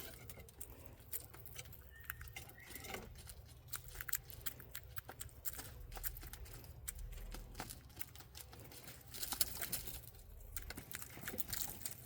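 Quail pecking and scratching at bugs on the aviary floor: many small, irregular taps and clicks, with a faint chirp about two seconds in.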